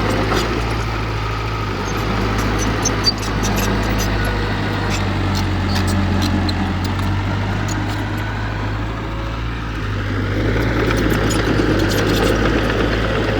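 Diesel engine of heavy earthmoving equipment running steadily, with scattered light clicks and rattles. The engine note eases a little past the middle, then swells again.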